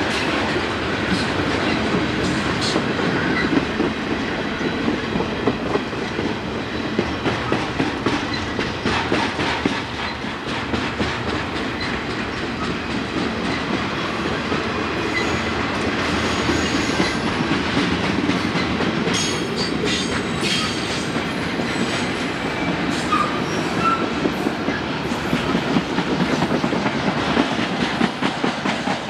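Conrail intermodal freight train of trailers on flatcars rolling past, its wheels clattering in an irregular rhythm over rail joints and switches, with now and then a brief wheel squeal.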